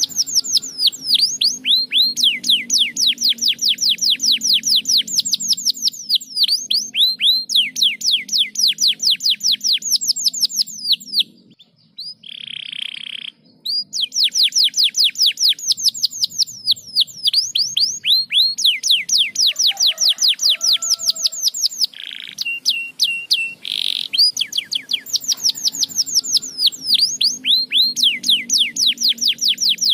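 Domestic canary singing long phrases of fast trills, each made of many quick down-slurred notes repeated in a rapid rhythm. The song breaks off briefly partway through for a short held note, with a few more held notes later before the trills resume.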